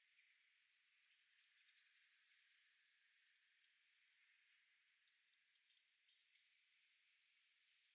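Very faint, high chirping from a forest nature-sound recording: a cluster of quick chirps about a second in, and another shorter cluster around six seconds in.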